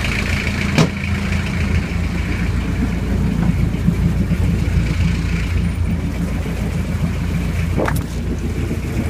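Perkins 4.154 four-cylinder diesel engine idling steadily, about a minute after a cold start. Two sharp clicks sound over it, about a second in and near the end.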